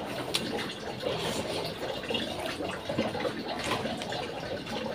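Close-up eating sounds: wet chewing and lip smacking of a mouthful of rice and fish curry, with small irregular squelching clicks.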